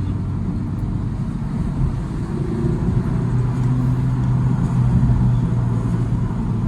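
Car engine and road noise heard from inside a moving car: a steady low drone whose pitch steps up and down a couple of times.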